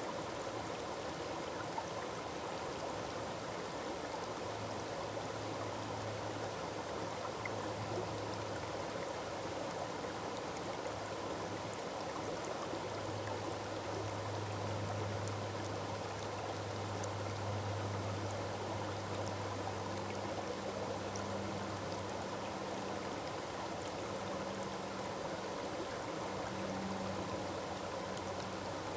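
Forest waterfall: water falling and rushing steadily. A faint low hum comes and goes underneath.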